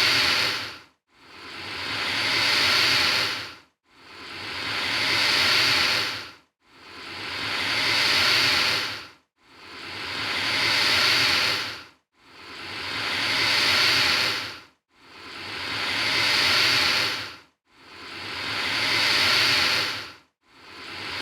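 Alligator hissing: the same breathy hiss repeats about every three seconds, eight times or so, each swelling louder over about two seconds and breaking off sharply, with a short silence between.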